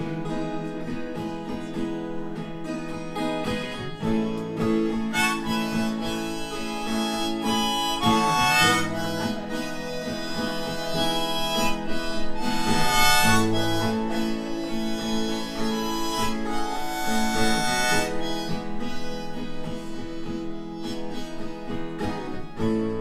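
Instrumental break in a live acoustic song: a harmonica plays a lead line of held and bending notes over acoustic guitar strumming.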